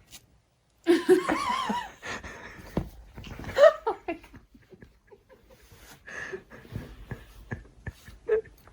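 A person laughing in short bursts, starting about a second in after a brief silence.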